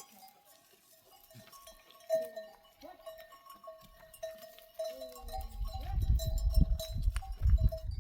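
Sheep and goats bleating a few times over a repeated, even-pitched ringing tone. A loud low rumble comes in about five seconds in.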